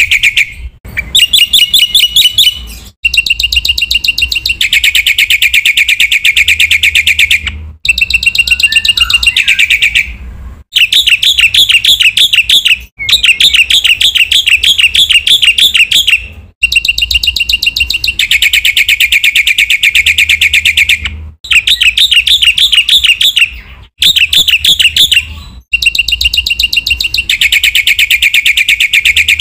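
Black-winged starling (jalak putih) singing loudly in fast runs of rapidly repeated chattering notes. The phrases last one to three seconds each, with brief breaks between them.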